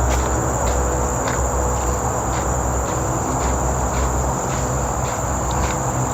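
Insects droning steadily on one high note, over a low rumble of traffic from a nearby main road, with the walker's footsteps on the trail about twice a second.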